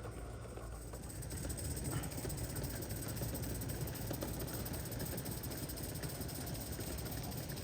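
Gauge 1 live-steam model locomotive running on the track: a steady hiss and low rumble that grows a little louder about a second in.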